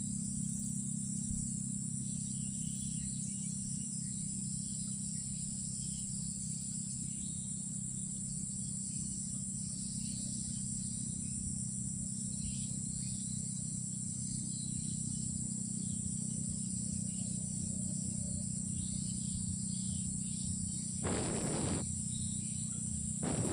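Night insect chorus, crickets and the like, making a steady high-pitched drone with faint chirps, over a low steady hum. Two short bursts of noise come near the end.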